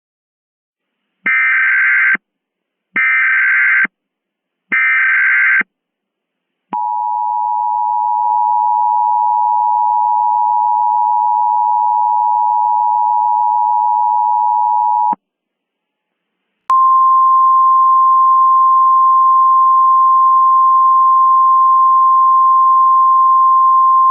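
Emergency Alert System tones. First come three short bursts of SAME digital header data, then the steady two-tone attention signal (853 and 960 Hz) for about eight seconds. After a short gap, a single steady tone of about 1050 Hz starts and holds to the end: the NOAA Weather Radio warning alarm.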